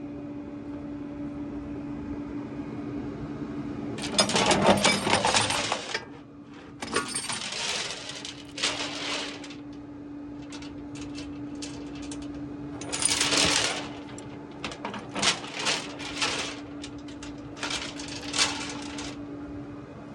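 Loose metal jingling and clinking in several bursts of a second or two each, over a steady low hum.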